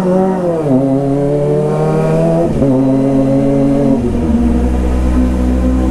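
Kawasaki ZX-25R's inline-four engine revs up, then drops back in steps, holding steady pitches in between, and falls to a low steady note about four seconds in.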